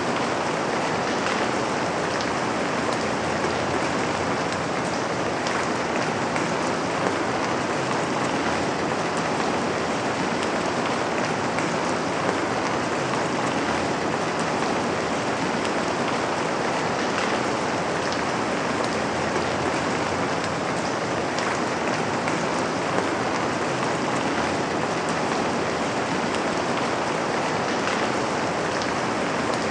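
Steady rain falling on a window, an even wash of patter with scattered single drops ticking out above it.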